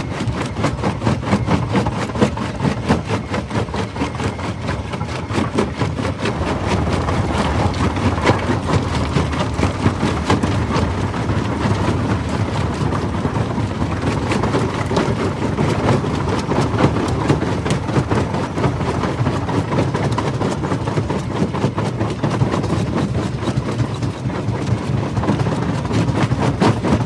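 Jaw crusher running and crushing stone: a steady low mechanical rumble under a dense, irregular crunching and clattering of rock.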